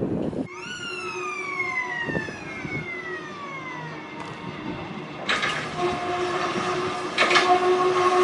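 Volks Electric Railway electric train: a motor whine that falls steadily in pitch over about three seconds. About five seconds in comes a louder rush of running and wheel noise, carrying a steady hum, with a sharp clank a couple of seconds later.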